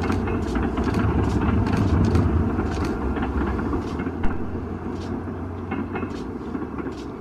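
Train running on the rails: a steady low rumble with sharp clicks about twice a second, slowly getting quieter.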